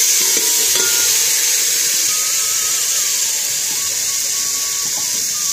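Ground spice paste (masala) sizzling loudly in hot oil in an aluminium pot, a steady frying hiss that eases only a little as it goes.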